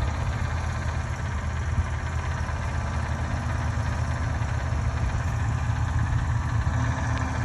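An engine idling steadily, a low, even running sound that holds without change.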